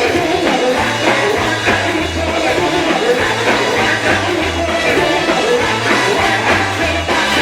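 Live gospel band music with a steady beat and low bass notes changing about every half second.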